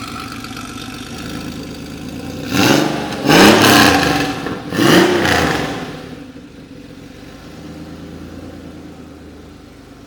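1993 Porsche 911 RS America's air-cooled 3.6-litre flat-six, breathing through an aftermarket exhaust, idling and revved twice in quick succession. Each rev rises and falls back, and the engine settles to a steady idle.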